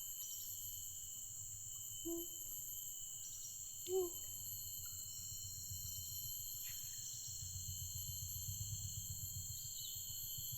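Steady high-pitched chorus of insects chirring over a low hum, with two brief voiced sounds about two and four seconds in.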